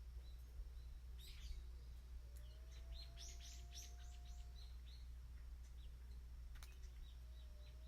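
Small birds chirping faintly, with a quick run of chirps about three seconds in and a single sharp click near the end, over a steady low hum.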